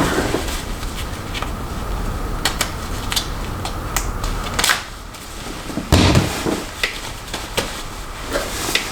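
Snap-on plastic hair rollers being handled and clipped in place: scattered light plastic clicks and knocks, with a heavier thump about six seconds in, over a steady low hum.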